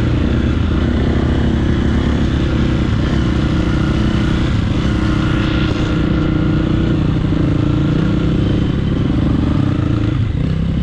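Dirt bike engine running at low, fairly even revs, its pitch shifting only slightly with the throttle.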